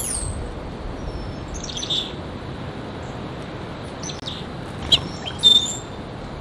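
House finches calling: a handful of short chirps spaced a second or two apart, the loudest about five and a half seconds in, over a faint steady low rumble.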